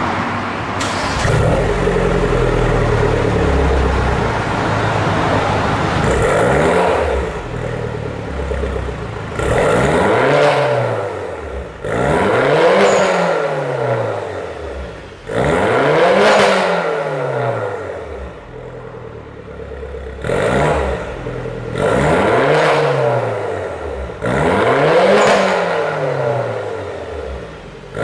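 MINI Countryman Cooper S (R60) turbocharged 1.6-litre four-cylinder running through a JCW muffler with Akrapovic carbon tips. The engine is revved about seven times, each rev climbing and then falling back, with a steady idle between revs.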